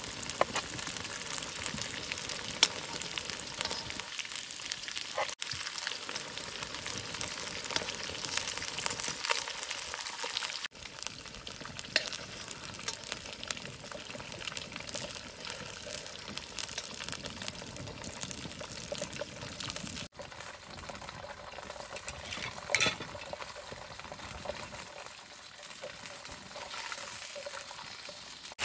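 Chicken drumsticks sizzling and crackling as they fry in hot oil in a wok over a wood fire. A couple of sharp taps come from the spatula on the pan.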